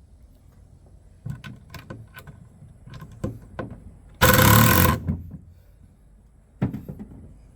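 Cordless drill run in one short burst of just under a second, about four seconds in, driving into the bird house's wood. Around it come scattered knocks and clicks of the tool and boards being handled.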